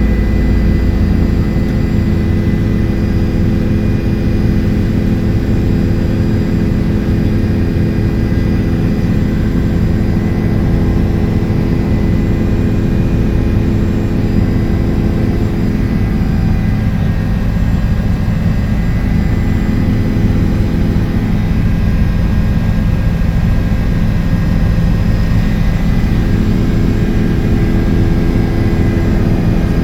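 Helicopter rotor and engine running steadily in flight: a loud, continuous low drone with a thin steady whine above it.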